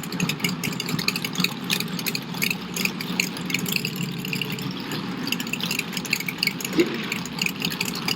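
V8 engine in a Smart car running steadily at an even speed, with a fast, irregular clatter of sharp ticks over a low hum.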